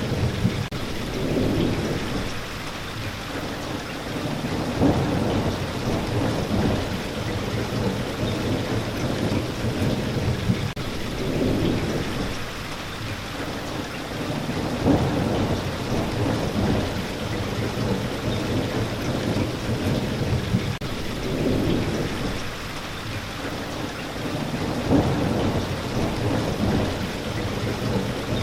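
Steady, continuous rain, with low rumbling swells rising and fading every few seconds.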